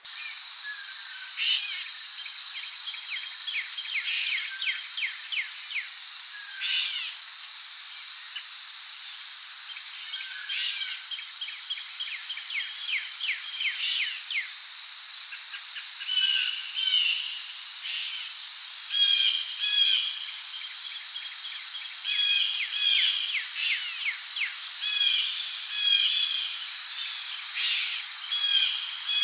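Forest ambience: a steady high insect drone with birds chirping and calling over it. The bird calls grow busier from about halfway through.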